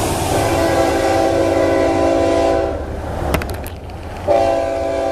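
Florida East Coast freight locomotive's air horn sounding two long blasts, a steady multi-note chord, the second blast starting about four seconds in, over the steady low rumble of the approaching train.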